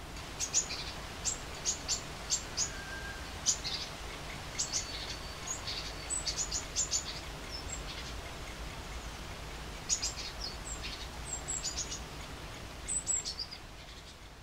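Birds calling: a string of short, sharp, high chirps at irregular intervals, a few of them gliding down in pitch, over a steady low background noise. The sound fades out near the end.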